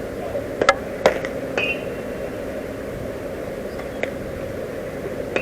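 A few sharp knocks with a short metallic ring, the two loudest close together about a second in, then weaker ones near the middle, over steady outdoor ballfield ambience.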